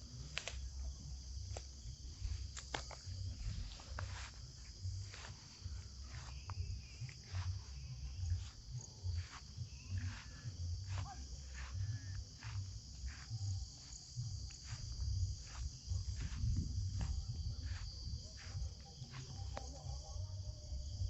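Steady high-pitched insect chorus of crickets in a rain-wet thorn forest, with irregular sharp ticks of dripping rain over a continuous low rumble.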